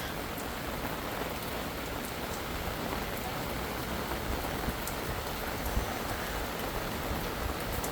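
Steady rain falling in a thunderstorm.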